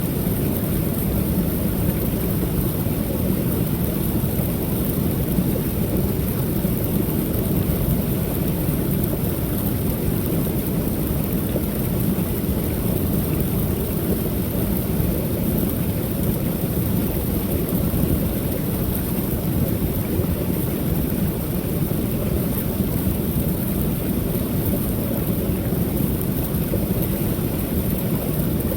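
Creek waterfall pouring steadily, a constant deep rushing of water.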